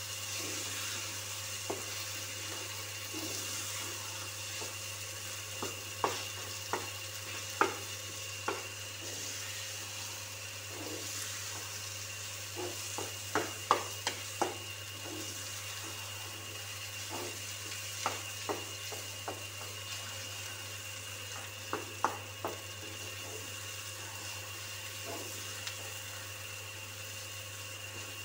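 Eggplant bharta sizzling in a frying pan as a wooden spatula stirs and mashes it. Irregular sharp clacks come from the spatula striking the pan, bunched in two busy spells.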